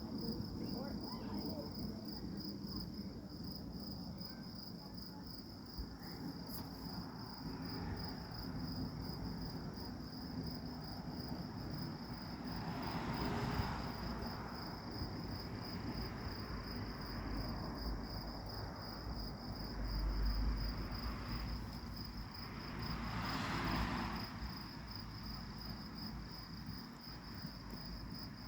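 Crickets chirping in a steady, high, evenly pulsing chorus. Two swells of rushing noise come about 13 and 23 seconds in, and a low rumble near 20 seconds.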